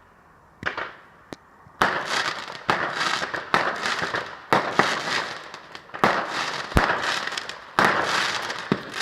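Fireworks going off: one sharp bang, then a rapid string of loud bangs about one a second, each trailing off in a crackling tail.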